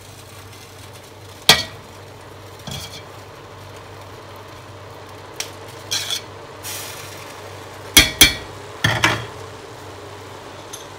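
Metal slotted skimmer spoon scraping and knocking against a stainless-steel pot while turning rice: scattered clinks and short scrapes, the loudest two knocks about eight seconds in, over a low steady hum.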